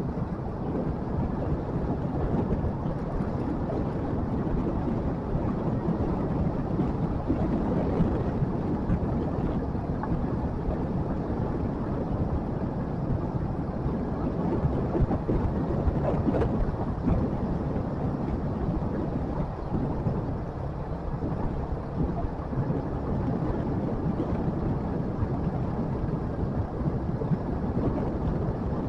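Motorcycle engine running steadily while riding, under a constant rumble of wind and road noise on the microphone.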